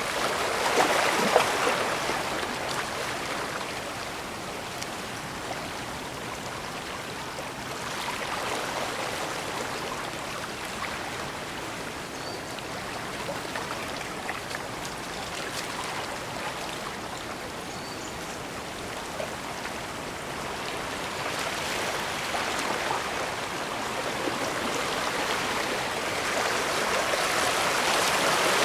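Bay water washing and splashing against the shore, a steady rushing that swells about a second in, again around a third of the way through, and builds near the end.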